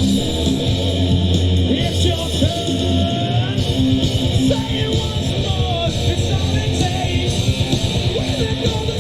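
A live rock band playing a song: electric guitar, bass and drums, with a voice singing over it. About three and a half seconds in, a held low bass note gives way to a fast, driving beat.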